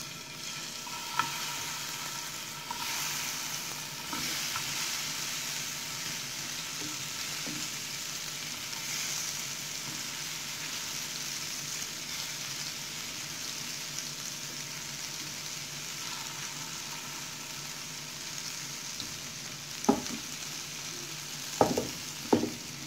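Masala-coated bitter gourd slices sizzling in hot oil in a frying pan as they are laid in, a steady frying hiss. A few sharp knocks sound near the end.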